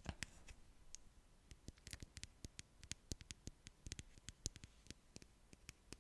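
ASMR mouth sounds close to the microphone: soft, irregular wet clicks and pops of the lips and tongue, several a second.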